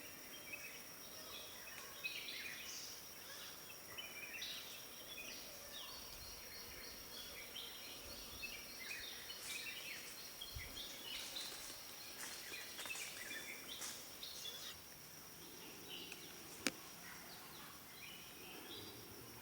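Small birds chirping and calling in woodland, many short overlapping calls, over a steady high-pitched tone. There is a single sharp tap about three seconds before the end.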